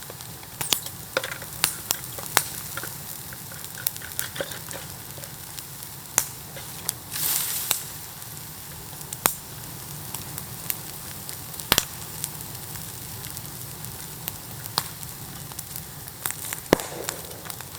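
Bamboo bonfire crackling, with sharp pops scattered irregularly throughout and a short hiss about seven seconds in.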